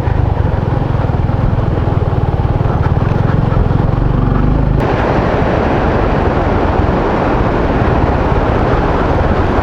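Motorcycle engine running steadily under way. About five seconds in, a louder, even rushing noise takes over and the engine note sinks into it.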